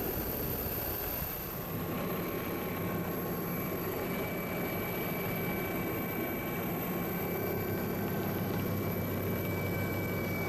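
Steady engine and rotor noise of a helicopter, recorded on board during aerial filming, with a few constant whining tones over the noise.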